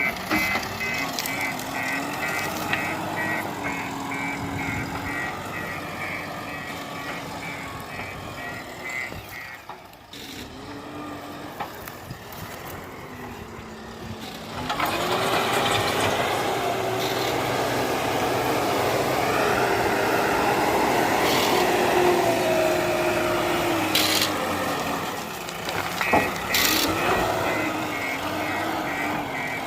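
JCB 4DX backhoe loader's diesel engine working, its pitch rising and falling, with the reversing alarm beeping rapidly through the first third and again near the end. About halfway through the engine revs up louder under load, and two sharp knocks come near the end.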